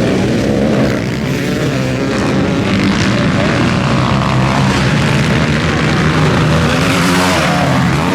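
Several motocross bikes' engines running hard on the track, their pitch rising and falling as riders work the throttle and shift, with overlapping engines.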